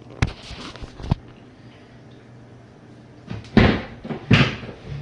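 Jenn-Air dishwasher's door and latch being handled: two sharp clicks in the first second, then two louder clattering knocks about a second apart near the end, over a faint steady low hum.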